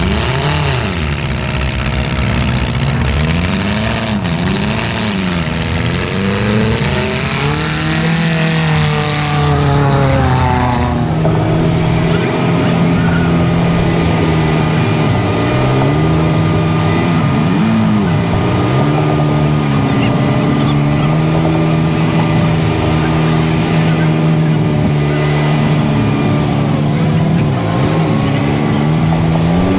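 Demolition-derby car's engine on open upright headers, revved up and down repeatedly under a loud hiss that cuts off about eleven seconds in, then running steadily at low speed with a few short blips. The owner reports this engine had its oil filter crushed and no oil left in it.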